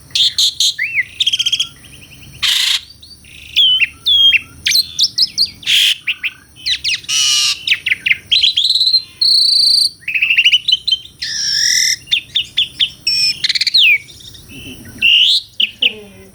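Asian pied starling (jalak suren) singing a fast, varied song of short rising and falling whistles mixed with harsh, scratchy notes, in quick phrases broken by brief pauses.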